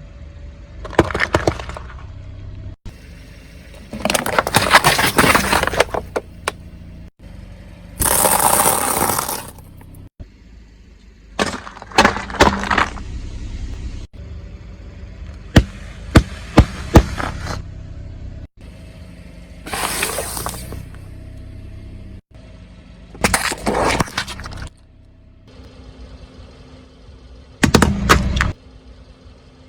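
A car tyre running over and crushing a plastic toy excavator: about eight separate bursts of plastic cracking and snapping, a few seconds apart, over a low steady hum.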